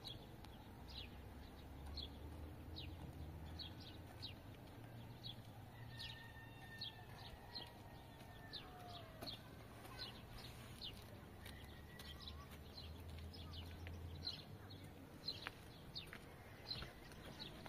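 Small birds chirping: a steady run of short, high, downward-sliding chirps, one or two a second, over a faint low hum.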